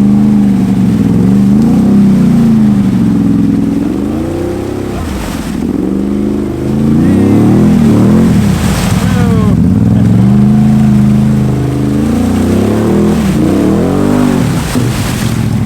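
Can-Am Outlander ATV's V-twin engine revving up and down over and over, the rider blipping the throttle while working the quad through deep mud ruts.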